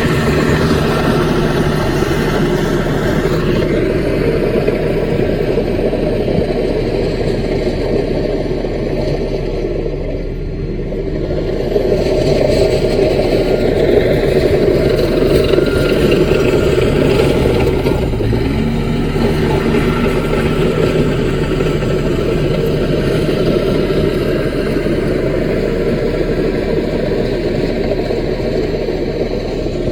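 CAT mini bulldozer's diesel engine running steadily under working load. It eases briefly about ten seconds in and picks up again a couple of seconds later.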